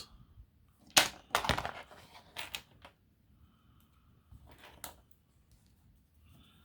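Small 3D-printed plastic parts clicking and rattling as they are handled, with a few sharp clacks about a second in and a couple more near the middle.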